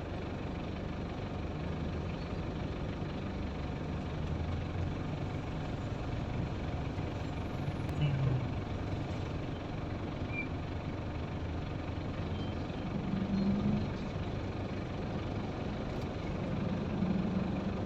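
Steady traffic noise: engines running with a low rumble that swells slightly a couple of times.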